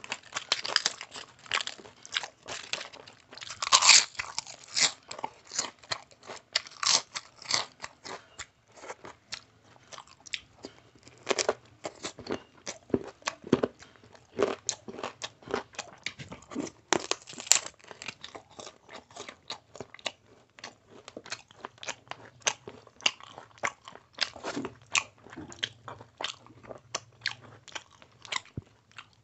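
A person chewing and crunching a mouthful of food close to the microphone: many short clicks and smacks, with the loudest crunches about 4 seconds in and again near 17 seconds.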